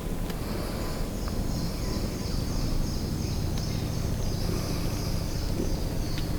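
Rainforest ambience: a steady low rumble under a run of repeated high-pitched chirping calls.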